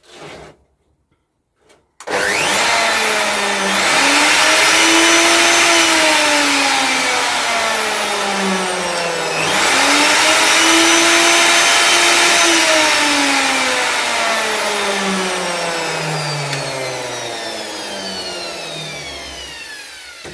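Router's electric motor starting up about two seconds in and running with a loud whine. Its pitch rises and sinks, jumps back up about halfway through, then slowly winds down and fades near the end, as the router table's switch and speed control are tried out.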